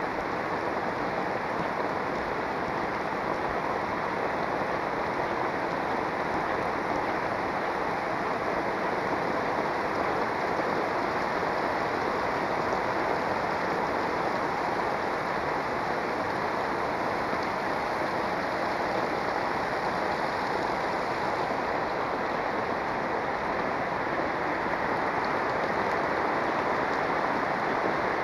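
Heavy rain pouring down steadily, a dense even hiss of rain striking the street and roofs.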